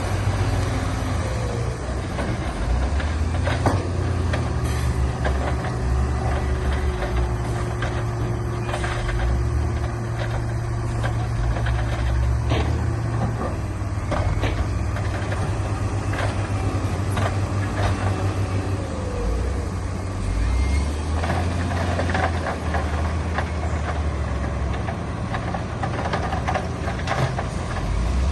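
Heavy diesel earthmoving machinery running steadily under load, with scattered metallic clanks and knocks and a couple of brief squeals.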